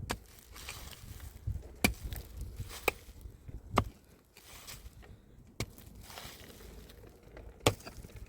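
A pickaxe striking rocky ground: six sharp blows spaced one to two seconds apart, with duller thuds and scraping of soil between them.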